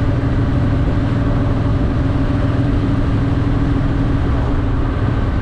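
Honda Shadow VT750's V-twin engine running steadily, with no revving or change in pitch.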